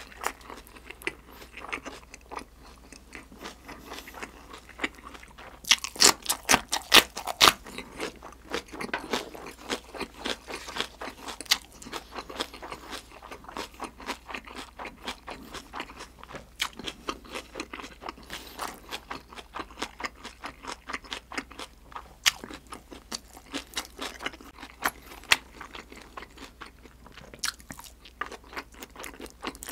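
A person chewing close to the microphone, crunching into a raw green chili pepper. A quick run of loud crunches comes about six seconds in, then slower chewing with scattered crunches.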